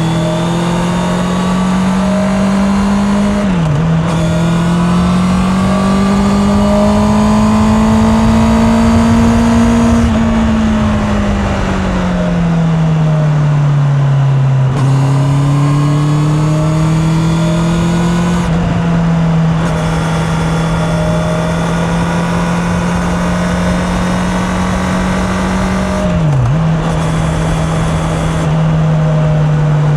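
Honda CB650R's inline-four engine under way, heard from a mic in the rider's pocket: the revs climb, drop sharply at a gear change about three and a half seconds in, then rise again. Around ten seconds in the revs fall away for about five seconds as the bike slows, then jump up and hold steady, with another quick gear change near the end.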